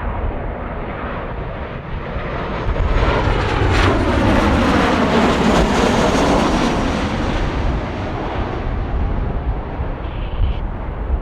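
Jet airliner passing close by. Its engine noise swells to a peak about four to six seconds in, the pitch falling as it goes past, then fades. Wind buffets the microphone throughout.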